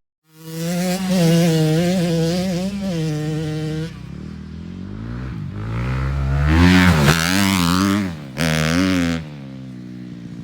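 Pit bike's small single-cylinder engine revving in wavering bursts, dropping to a lower idle about four seconds in, then revving up with a rising pitch and giving one more short blip before settling back to idle.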